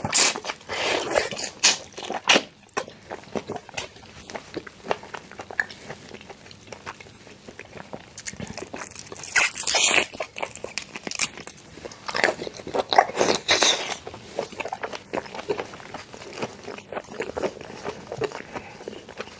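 Close-up biting and chewing of a whole cooked prawn, its shell crunching and crackling. The crunching comes in bursts in the first three seconds, again around ten seconds in and from about twelve to fourteen seconds, with quieter chewing between.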